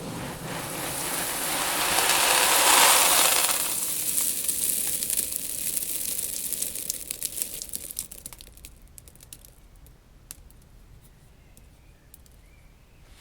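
A mass of seeds in a tank rustling and rushing as they shift and slide. The hiss swells for about three seconds and fades by about eight, leaving scattered ticks of single seeds settling.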